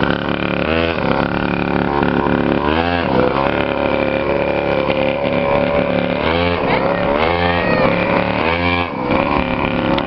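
Engine of a child's custom chopper motorcycle running and revving up and down several times as the throttle is opened and eased off while it is ridden.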